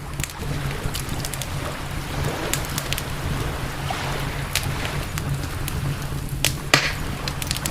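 Campfire crackling, with sharp pops scattered irregularly and one louder pop near the end, over a low steady rumble.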